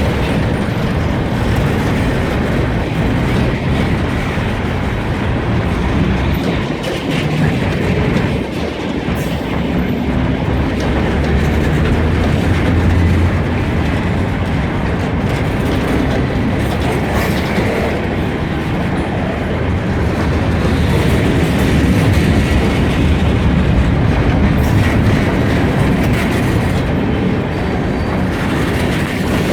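Kiamichi Railroad freight train rolling past, its cars making a steady, loud rumble on the rails.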